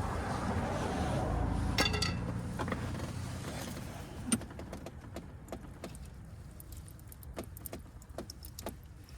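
Metal clinking with a short ringing note about two seconds in, then scattered light clicks and knocks, over a low rumble that fades after the first few seconds.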